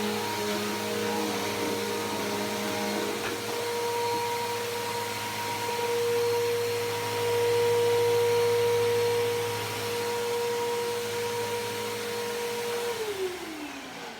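Bissell PowerForce Helix Turbo upright vacuum cleaner running steadily, its motor tone shifting slightly. About a second before the end it is switched off, and the motor's pitch falls as it winds down.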